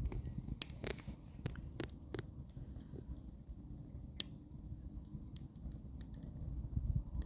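Burning firewood crackling: irregular sharp pops over a low steady rumble, the strongest pops near the start and about four seconds in.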